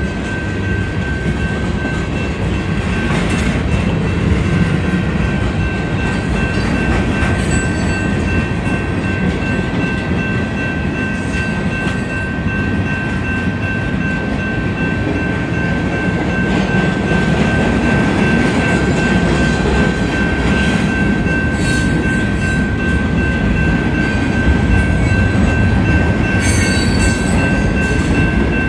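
Freight train cars rolling past at speed, wheels rumbling and clacking over the rail joints, with occasional sharp clanks. A steady high-pitched tone sounds over the rumble throughout.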